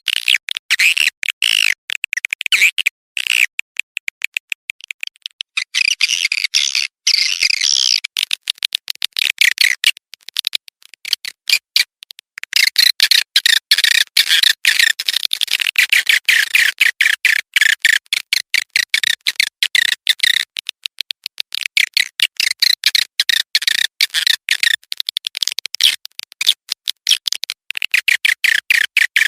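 Recorded swiftlet calls used as a lure: a fast, chattering stream of high chirps and clicks. Briefly thinner-sounding about six seconds in, with short breaks near four and twelve seconds.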